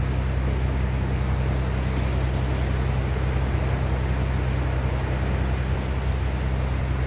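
Steady rush of wind and sea with a deep, even low hum underneath, with no separate wave crashes.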